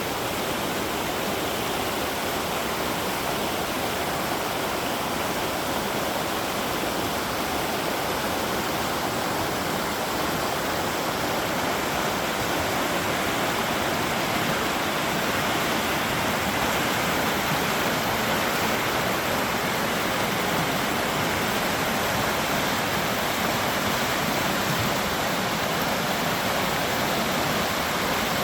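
River running high, fast water rushing over rocks with a steady, even rush.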